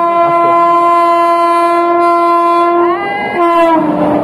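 Locomotive air horn of a passing train, one long steady blast. About three seconds in the horn's pitch drops as the train goes by, and rushing rail noise builds near the end.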